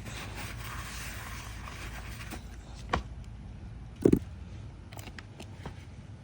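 Rubbing and scraping from wiping out a cartridge oil filter housing. A sharp click comes about three seconds in, and a louder knock, the loudest sound, a second later as parts are handled and set down.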